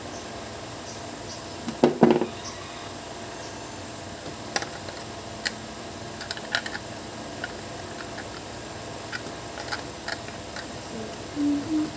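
Handling noise at a workbench: two loud knocks about two seconds in, then scattered light clicks, over a steady hiss, with a brief low tone near the end.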